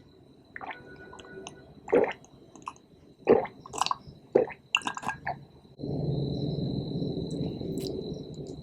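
Close-miked wet chewing and mouth smacks from eating cake: a series of sharp, separate clicks and squelches over the first five seconds. About six seconds in, a steady low noise takes over.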